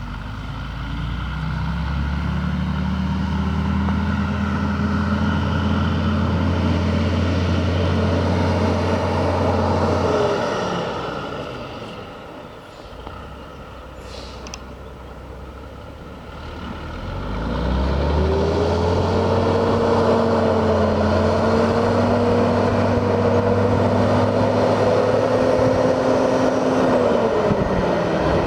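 Engine of a 1979 Ford L9000 tri-axle grain truck running under power. It winds up and holds a steady note, then drops away and goes quiet for a few seconds. About halfway through it winds up again, holds, and drops off near the end.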